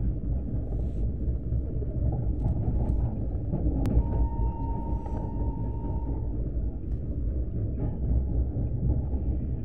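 Steady low rumble of a moving train, heard from inside a coach as its wheels run over the rails. A faint, thin whine comes in about four seconds in and lasts about two seconds.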